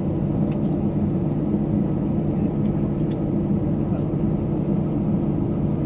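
Steady aircraft cabin noise: the airliner's engines and airflow as a constant low drone.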